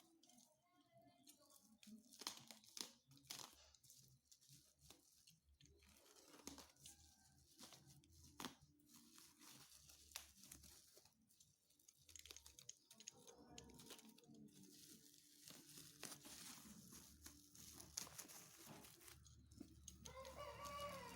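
Faint tearing and crinkling of a parcel's plastic packaging, with scattered small clicks and crackles.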